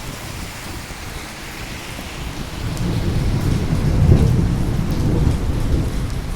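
Steady rain with a roll of thunder that builds about two and a half seconds in, peaks a little later and slowly fades as the rain keeps falling.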